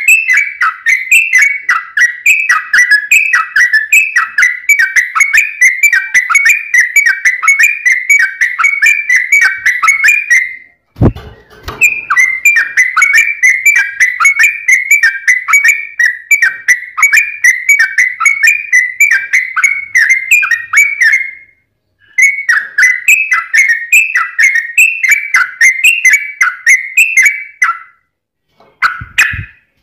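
Yellow-vented bulbul (trucuk) singing a fast, dense run of short whistled phrases with hardly a pause. The song breaks off briefly three times, and a low thump falls at two of the breaks.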